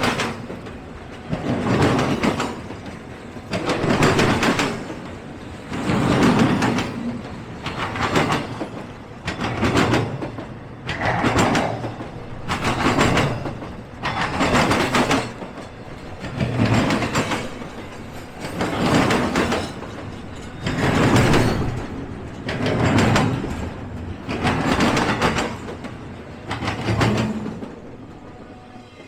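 Freight train cars rolling past on the rails, the wheel and car noise swelling and fading in a steady rhythm about every two seconds as each car goes by, easing off near the end.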